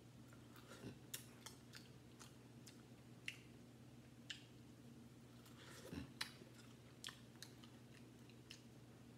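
Faint, scattered crunches and mouth clicks of someone biting and chewing boiled corn on the cob, over a low steady hum.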